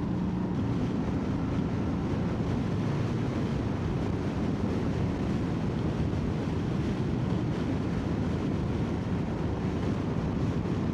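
Motorcycle riding at road speed: steady wind rush over the microphone with the engine running underneath, its note clearest in the first second or two before the wind covers it.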